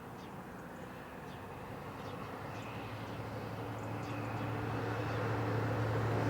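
Diesel-locomotive-hauled passenger train approaching, growing steadily louder, with a low steady engine hum coming up about halfway through. Birds chirp in the first half.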